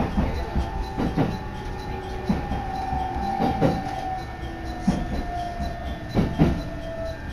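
Interior of a local electric train slowing into a station: a steady low rumble with wheel knocks over the rail joints about once a second, some in quick pairs, and a thin whine that dips slightly in pitch.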